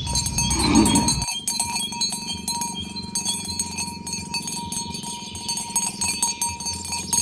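Bells on a herd of walking cattle jingling and clanking with many quick clicks and steady ringing tones. A louder, low sound comes in about half a second in and cuts off abruptly a little after a second.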